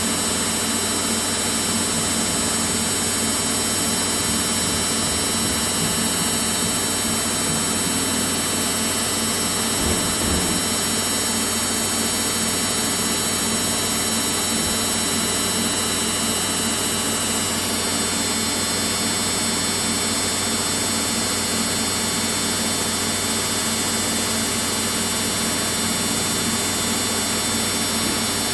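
Samsung front-load washing machine in its spin cycle, its drum turning at speed: a steady whirring hiss over a constant low hum.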